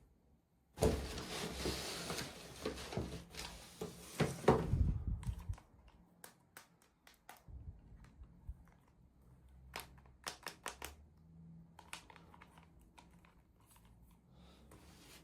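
Toy packaging being handled: a few seconds of plastic crinkling and rustling, then scattered small clicks and taps of plastic pieces.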